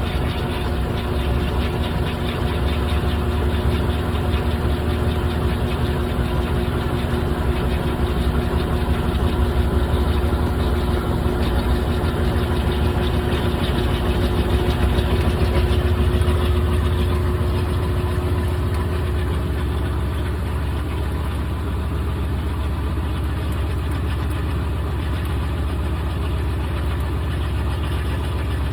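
GE top-load washing machine running with a steady motor hum and a deep low rumble. Its steady tones drop out about two-thirds of the way through, and the sound settles a little quieter.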